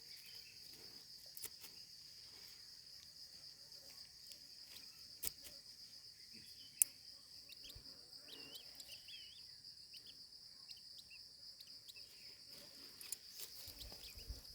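Insects trilling steadily at a high pitch, with a few faint bird chirps about eight to nine seconds in. There are also several sharp clicks, the loudest about seven seconds in.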